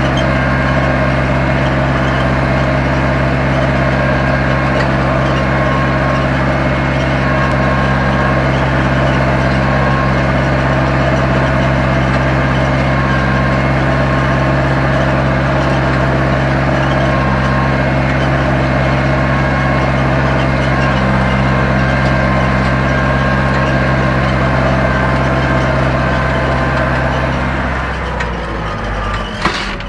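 Zetor 7245 tractor's four-cylinder diesel engine running steadily under load while ploughing. About two seconds before the end the steady note drops away and there is a sharp click.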